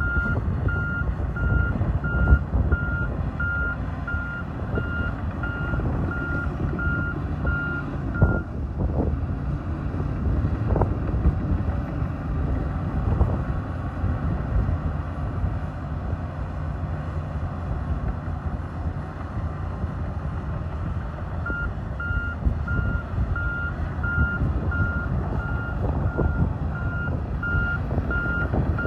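Bulldozer's diesel engine running under load with scattered clanks, while its backup alarm beeps about twice a second as it reverses. The beeping stops about eight seconds in and starts again about seven seconds before the end.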